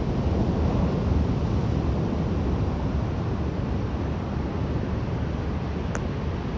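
Rough surf breaking on the beach, with wind buffeting the microphone: a steady rushing noise.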